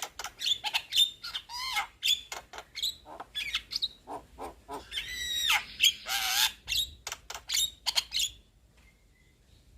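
Young Javan myna singing a fast, varied run of whistles, clicks and harsh squawky notes. It stops about a second and a half before the end.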